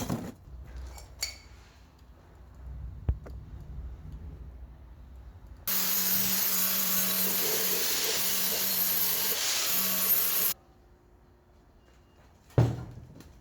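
A power tool runs in one steady burst of about five seconds, a loud hiss with a low hum under it that starts and stops abruptly, during work on a catalytic converter. Scattered knocks and clinks come before it, and one sharp knock follows near the end.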